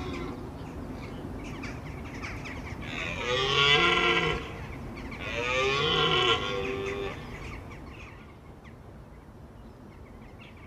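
A rutting deer stag bellowing twice, each call a long, loud roar of about a second and a half that rises and falls in pitch, the first about three seconds in and the second shortly after.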